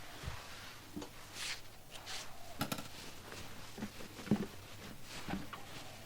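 Cloth being handled: short rustles of fabric and a few soft knocks against a work table as a small sewn dress is worked.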